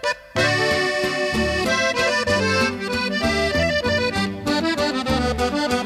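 Norteño music: an accordion plays a lively melody over low bass notes, the instrumental introduction of a song, starting just after a brief break at the very beginning.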